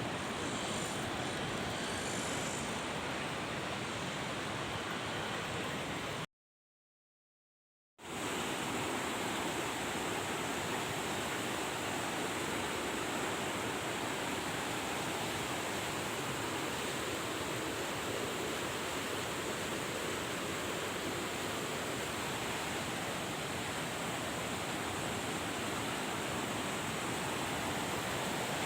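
Steady rush of fast-flowing mountain water, even and unbroken. About six seconds in it cuts to dead silence for under two seconds, then fades back in.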